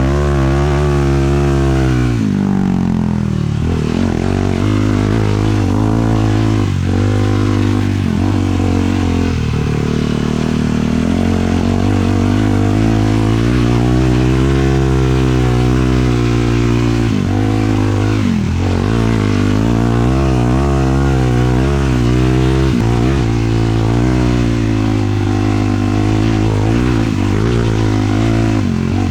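Sport quad's 450cc single-cylinder four-stroke engine being ridden hard, its pitch climbing and dropping again and again as the throttle is opened and let off.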